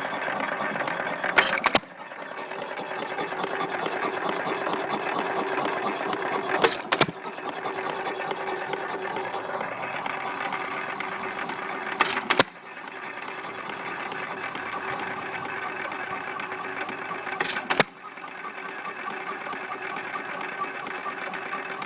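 1927 Arco (Hercules-built) hit-and-miss engine running unloaded at about 300 rpm: a sharp bang roughly every five and a half seconds, four in all, with steady mechanical clatter in between as it coasts on its flywheels. The spaced-out firings are the governor skipping power strokes until the speed drops.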